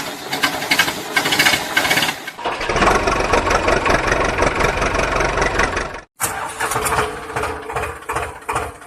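A motor or engine running steadily, cut into three pieces: the sound changes abruptly about two and a half seconds in, and again after a brief dropout about six seconds in.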